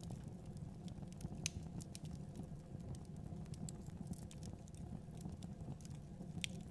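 Wood fire burning in a fireplace: a low steady rumble of flames with irregular small pops and crackles, a sharper pop about a second and a half in and another near the end.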